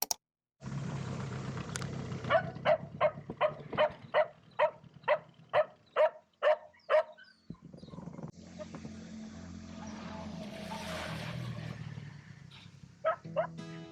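Cocker spaniel barking about a dozen times in quick succession, roughly two barks a second, then twice more near the end. Under it runs a steady low hum of a small engine.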